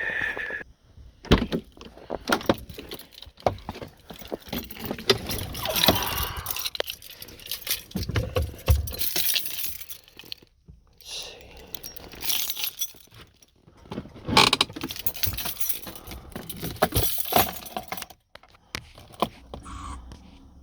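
A bunch of keys jangling and clattering, with irregular clicks, knocks and rustling from handling.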